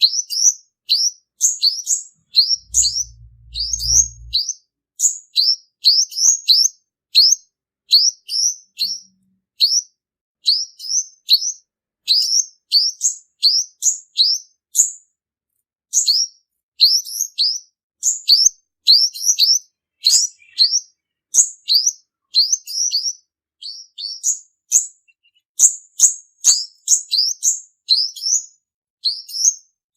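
Male olive-backed (purple-throated) sunbird singing: a rapid run of thin, high chirps, several a second, with short pauses. This is the song used as a lure call. A brief low rumble comes about three seconds in.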